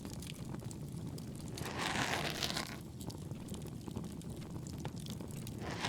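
Two soft scraping, rustling strokes of an ASMR ear pick against the microphone, each about a second long, over steady campfire crackle.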